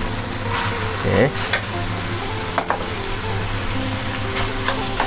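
Stir-frying in a non-stick wok: cooked rice tipped onto frying chicken and mixed vegetables sizzles in hot oil. A slotted spatula stirs and scrapes through it, with a few sharp taps against the pan.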